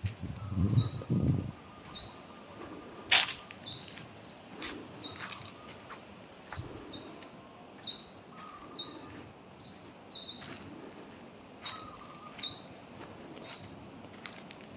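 A small bird calling over and over in short, high chirps, each dropping quickly in pitch, about one or two a second. A single sharp click about three seconds in.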